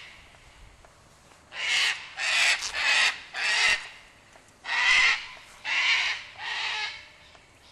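A bird giving a series of harsh, raspy caws: four in quick succession, then three more after a short pause.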